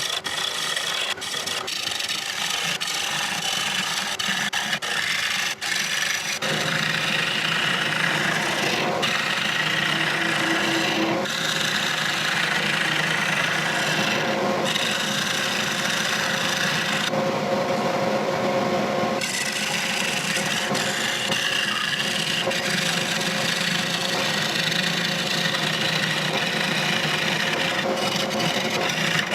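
A gouge cutting a spinning rosewood bowl on a Laguna Revo 18/36 lathe, making a steady rough shaving and scraping noise. For the first six seconds or so the cut is broken by frequent sharp ticks, then it runs on continuously.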